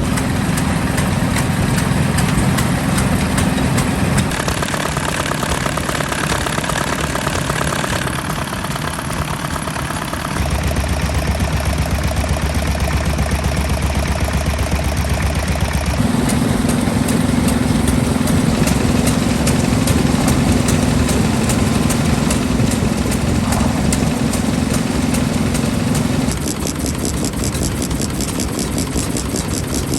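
Vintage Japanese stationary engines (hatsudōki) running with a steady, even firing beat. The pitch and character of the running change abruptly several times, as from one engine to another.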